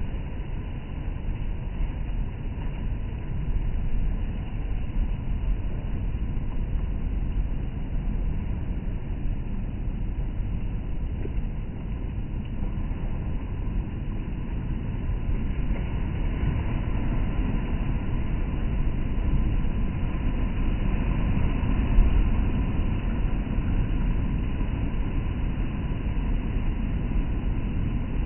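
Storm surf on a rough sea, waves breaking against concrete slabs on the shore: a steady, heavy low rumble without distinct crashes, growing somewhat louder about halfway through.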